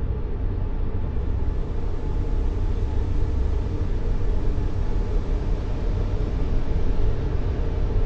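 Continuous white-noise track for soothing a baby to sleep: a deep, even rush with most of its weight in the bass and little treble, unchanging throughout.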